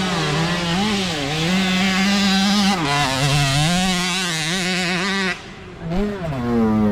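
Small mini dirt bike engines revving, the pitch rising and falling with repeated throttle blips. The sound dips briefly about five seconds in, then swells up and down again.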